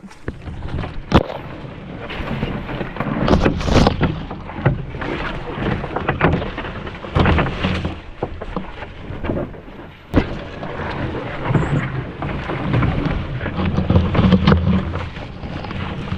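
Footsteps pushing through dense, wet bush on a portage trail, with branches and brush scraping and snapping, and a low rumble that swells and fades.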